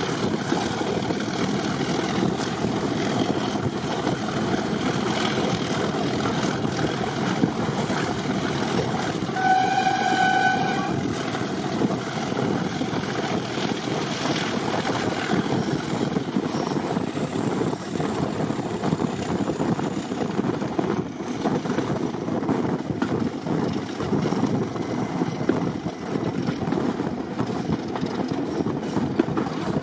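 Diesel locomotive running on a heritage railway, a steady dense rumble and rail noise, with one short horn blast about a third of the way in.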